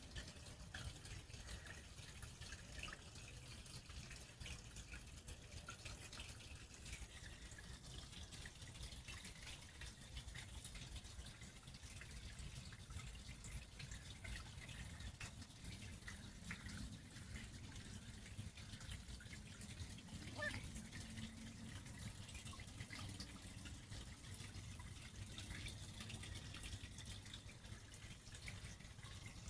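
Faint trickling and dripping of water from a small fish-pond waterfall, with a short rising whistle about two-thirds of the way through.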